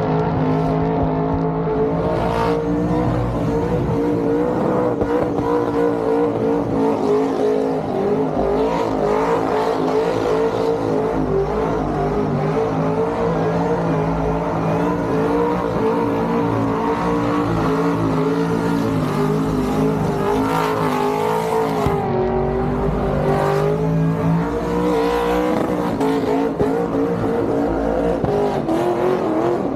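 Car engine held at high, steady revs during a burnout, its pitch wavering throughout and dipping briefly a little after twenty seconds in.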